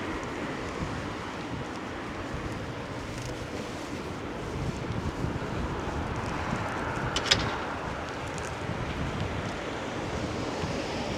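Steady hiss of rain with general street background noise, and a short high-pitched squeak or clink about seven seconds in.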